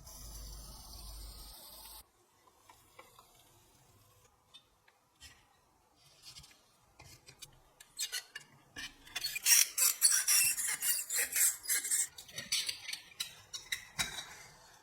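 Rapid rasping, scraping strokes of a tool rubbing over a part, several a second, starting about eight seconds in after a few scattered light clicks and taps. A short hiss opens the sound.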